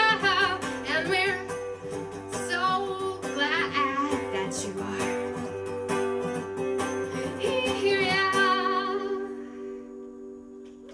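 A woman singing with vibrato over a strummed acoustic guitar, held wordless notes at the close of a song, with the last chord ringing out and fading near the end.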